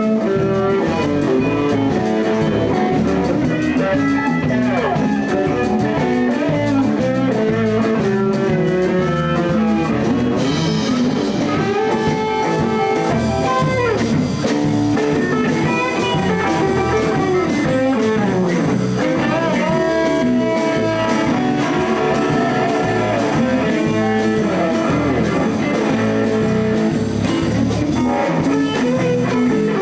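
Live blues band playing an instrumental break: a steady drum and bass groove with guitar backing under a lead line that bends notes up and down.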